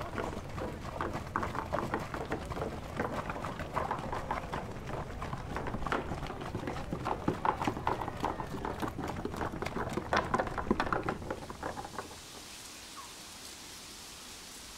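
Footsteps of someone walking: quick, irregular taps over a low rumble. They stop about twelve seconds in, leaving only a faint hiss.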